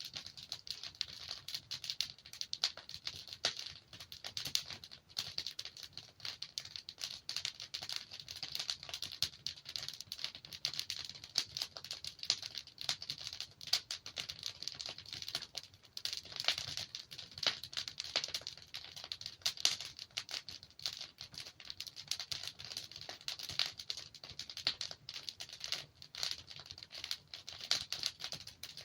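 Wood fire burning in a fireplace: a dense, irregular crackle of small snaps and pops from the burning logs, over a faint low rumble.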